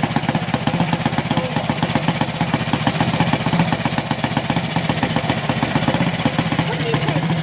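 1955 BSA DB32 Gold Star's 350 cc single-cylinder engine idling, a rapid, even beat of exhaust pulses through touring silencers.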